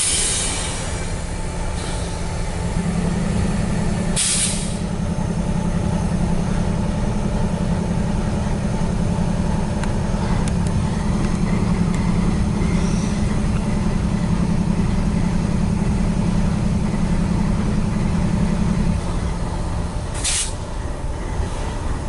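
Diesel locomotives of a CSX loaded coal train giving a steady low drone over a rumble. Three short, sharp hisses of air come through: one at the start, one about four seconds in and one near the end.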